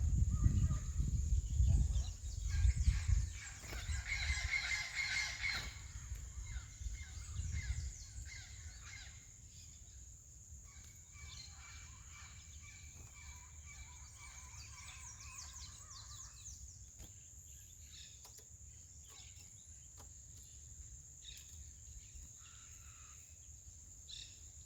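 Curiós (chestnut-bellied seed finches) chirping and singing in short trills, busiest in the first half and thinning out later. Low rumbling noise in the first few seconds and a steady high-pitched whine underneath.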